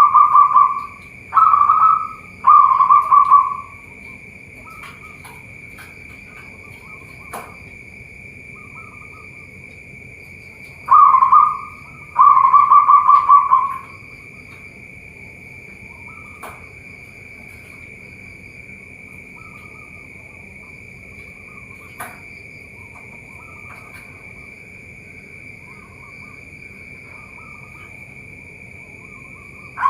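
Zebra doves (perkutut) cooing: three loud coo phrases at the start and two more about eleven seconds in, with fainter coos from other birds in between, over a steady high buzz.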